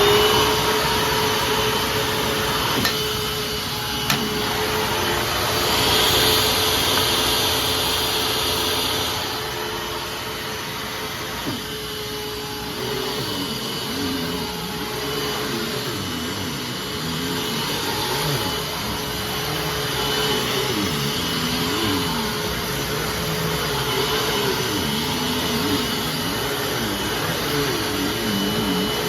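Hoover Fold Away TurboPOWER 3100 upright vacuum cleaner running, a steady whine over a lower hum that wavers up and down as it cleans. The owner says its motor needs replacing.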